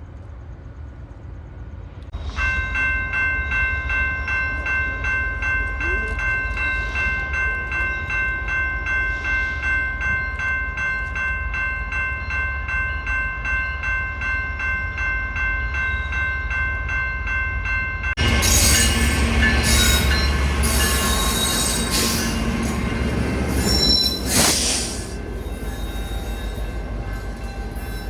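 A grade-crossing warning bell starts ringing about two seconds in, a steady, evenly repeating ring. About eighteen seconds in, a train arrives loudly at the crossing: the rumble and clatter of the train, with short, loud horn blasts.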